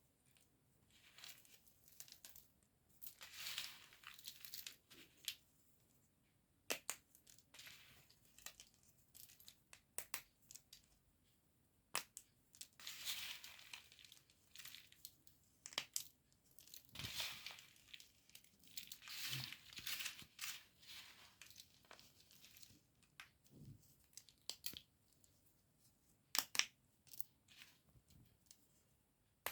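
Brittle white chalk being crushed and crumbled: irregular runs of crunching, a second or two each, with sharp single snaps and crackles between them.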